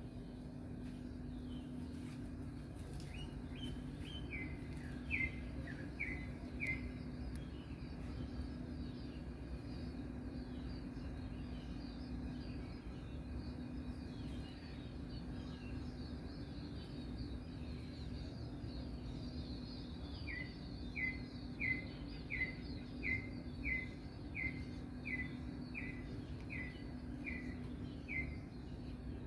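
A bird calling in runs of short, evenly spaced, falling notes, about six a few seconds in and a longer run of about a dozen near the end, with fainter chirping in between. A steady low hum runs underneath.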